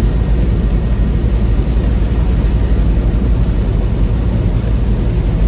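Steady low engine and road drone inside the cab of a loaded semi truck driving at speed.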